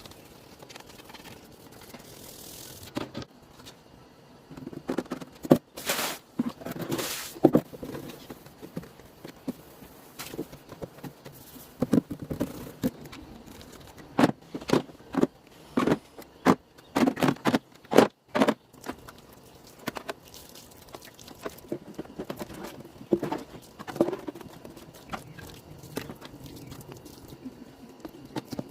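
Refrigerator being washed by hand: irregular knocks, clatters and scraping as parts are handled and scrubbed, busiest in the middle.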